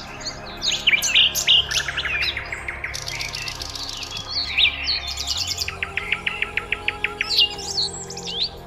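Several small birds chirping and calling with quick whistled notes, including two fast trills of evenly spaced notes, one about a second and a half in and another just past the middle.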